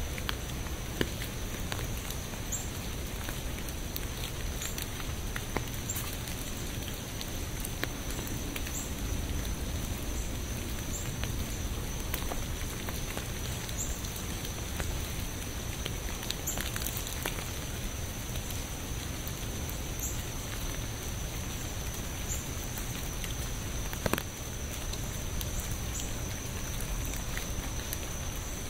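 Steady rain falling, with scattered individual drops tapping sharply and one louder tap near the end, over a faint steady high whine.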